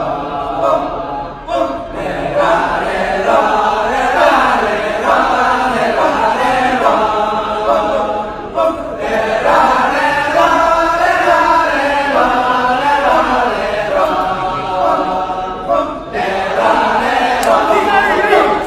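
Balinese kecak chorus: many voices chanting together in rhythm, dropping out briefly about three times.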